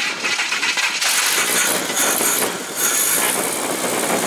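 Newly installed Chevrolet 250 inline-six running just after its first start, with a dense mechanical clatter; a steadier hum settles in about three seconds in.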